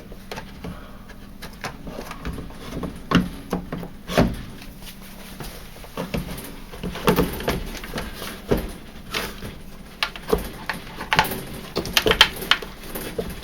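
Plastic parts of a tumble dryer's condensate pump assembly being handled and worked loose: scattered clicks, knocks and light rattles, busier in the second half.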